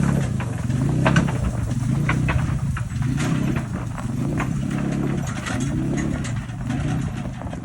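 A vehicle engine running under load, its pitch rising and falling about once a second. Over it come scattered rattles and knocks.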